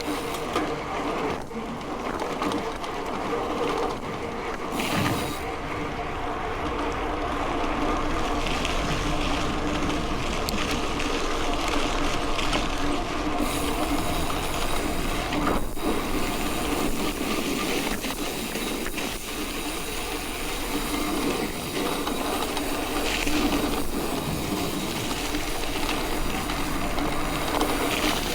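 Mountain bike rolling along a dirt road: steady tyre and bike noise on the unpaved surface.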